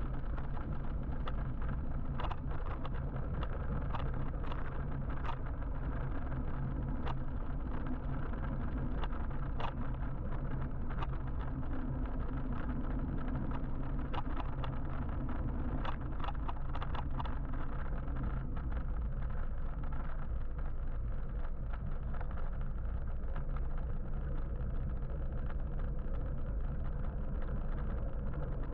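Road noise from a moving electric motorbike in traffic: a steady low rumble of wind and tyres, with scattered sharp ticks through roughly the first two-thirds.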